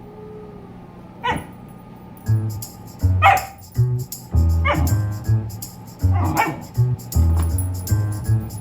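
A dog barking four times, single short barks spaced a second or two apart, over background music with a steady beat that comes in about two seconds in.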